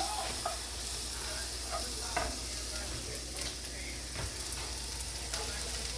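Garlic and vegetables sizzling steadily in a pan on the stove, with a few light clicks of a utensil stirring.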